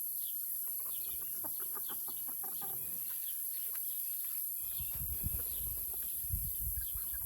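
Backyard chickens clucking softly, with small high chirps throughout. A low rumble on the microphone joins in the second half.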